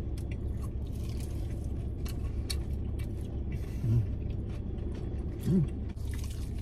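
Chewing and biting into crispy fried chicken tenders, with scattered light clicks, over a steady low hum inside a car. Two brief hummed "mm" sounds come about four and five and a half seconds in.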